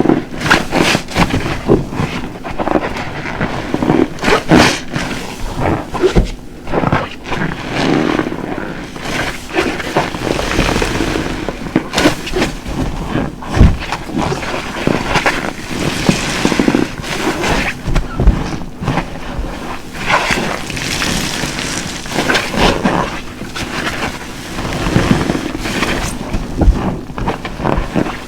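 A large cut car-wash sponge soaked with dishwashing detergent being squeezed and released over and over, squelching wetly as the soapy foam crackles and pops, in irregular surges with some sharper wet squishes.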